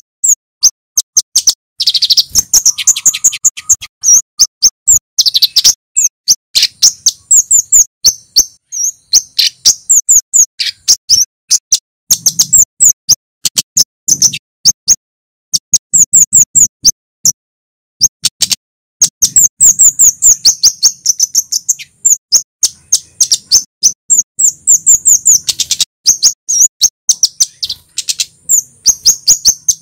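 Male kemade (scarlet-headed flowerpecker) calling in fast runs of short, sharp, high-pitched 'cit' notes, with brief pauses between runs.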